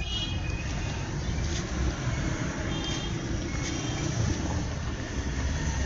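Steady road traffic noise, a continuous rumble of passing vehicles, with faint high tones about 3 seconds in.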